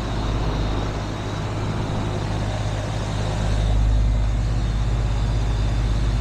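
A 2017 Payne 4-ton central air-conditioner condenser running: a steady low compressor hum under the rush of its fan, working normally. It grows a little louder about halfway through.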